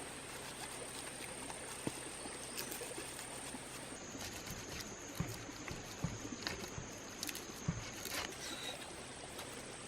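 Tropical forest ambience with a steady high-pitched insect drone that drops in pitch about four seconds in and rises again near the end. Scattered light knocks and clicks come in a cluster in the second half.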